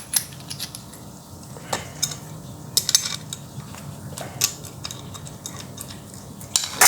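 Metal tool and bicycle freewheel parts clinking and clicking as the freewheel is being tightened: scattered sharp metallic clicks, several seconds apart, over a faint low hum.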